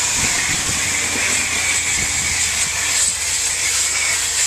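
Car-wash equipment running with a steady hiss over a low motor hum.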